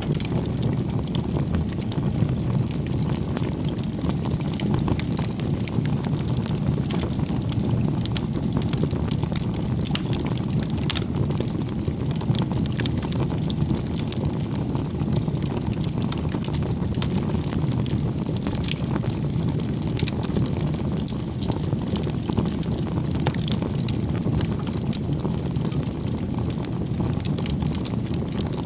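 Campfire crackling: a steady low rush from the burning, with frequent small snaps and pops throughout.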